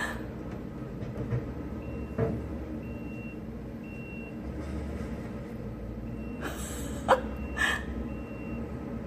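Stump grinder's engine running steadily with the grinding rumble, while a high backup-alarm beep sounds about once a second, pausing briefly in the middle. A few short knocks sound about two seconds in and again near the end.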